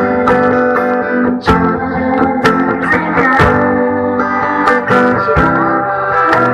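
Acoustic guitar playing an instrumental passage, with chords and notes struck one after another.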